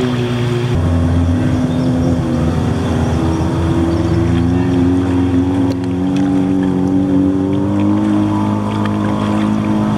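Engines of two motorboats passing close by, a loud steady engine hum made of two overlapping pitches that drift slightly as the boats go by.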